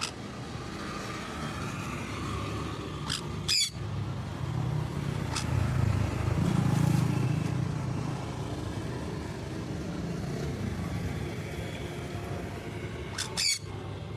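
Two short, sharp parrot squawks, about ten seconds apart, over a steady low rumble that swells midway.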